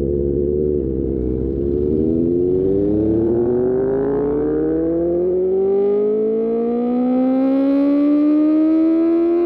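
QJMotor SRK600 inline-four running through an Austin Racing aftermarket exhaust, pulling hard in one gear: the engine note climbs smoothly and steadily for several seconds, then drops sharply at an upshift right at the end.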